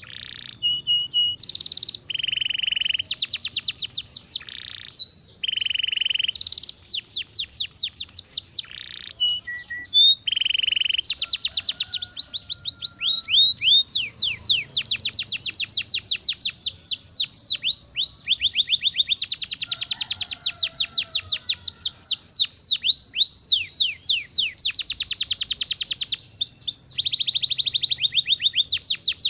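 Domestic canary singing a long, continuous song of rapid rolling trills, fast repeated chirps and short held whistled notes, with barely a pause.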